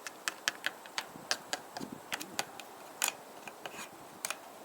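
Light, irregular clicks and taps of tools and metal parts being handled while a chainsaw's clutch area is cleaned, about two to four a second.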